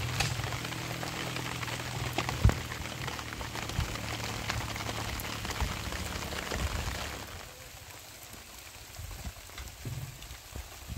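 Heavy rain falling on a surface, a steady hiss with many scattered drop impacts and one sharper knock about two and a half seconds in. The rain drops to a quieter level after about seven seconds.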